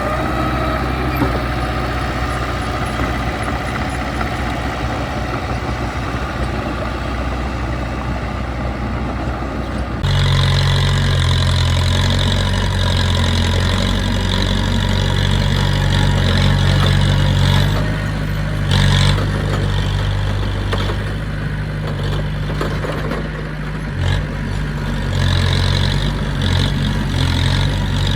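Heavy diesel engine of construction machinery running steadily. About ten seconds in, the sound switches abruptly to a louder, deeper engine note with a high whine over it.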